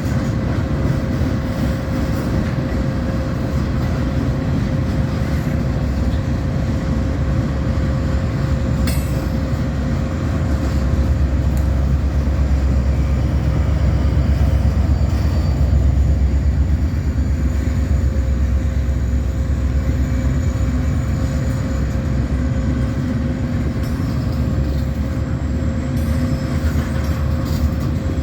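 A freight train rolling past, its cars making a steady low rumble that swells to its loudest in the middle, with a thin steady whine running underneath.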